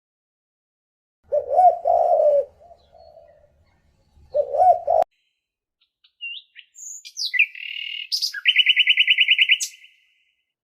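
Bird calls: two low cooing calls a couple of seconds apart, then a run of high chirps ending in a rapid trill of about a dozen notes a second.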